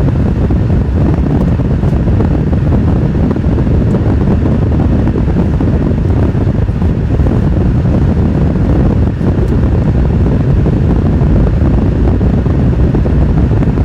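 Steady road and wind noise of a vehicle being driven along at speed: a loud, even, low noise with no breaks.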